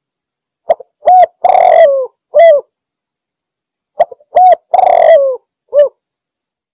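Spotted dove (tekukur) cooing in two phrases about three seconds apart. Each phrase is a few short coos around a long, rough middle coo that falls in pitch at its end. It is the call used to draw a rival dove in.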